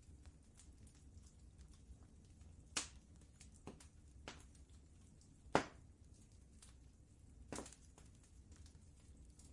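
Wood fire crackling in a fireplace: irregular sharp pops and snaps, the loudest about five and a half seconds in, over a faint low rumble.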